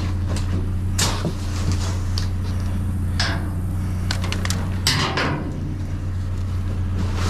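Chunks of scrap aluminum clanking and knocking together as they are picked out of a dumpster: a handful of sharp, irregular clanks over a steady low hum.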